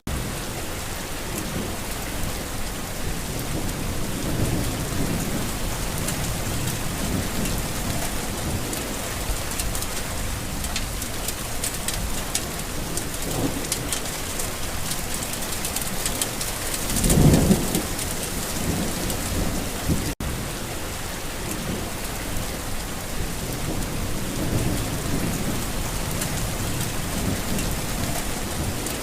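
Steady rain falling, with thunder rumbling low in the background several times; the loudest rumble swells about 17 seconds in. The sound cuts out for an instant a little after 20 seconds.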